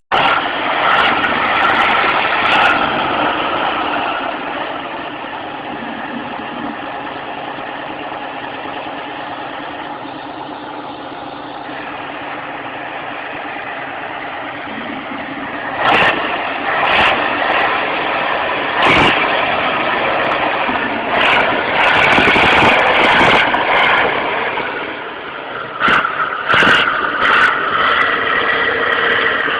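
Truck running on the road with steady engine and road noise, broken in the second half by several sudden loud bangs.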